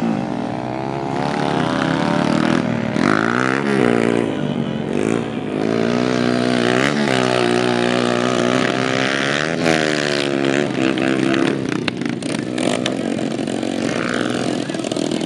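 Dirt-track racing motorcycles running at full throttle, their engine pitch climbing and then dropping sharply again and again through the gears.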